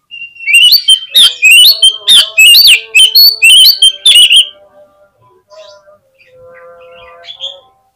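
Oriental magpie-robin singing loudly: a fast run of varied whistles and harsh, clicking notes for about four and a half seconds, then softer, lower notes.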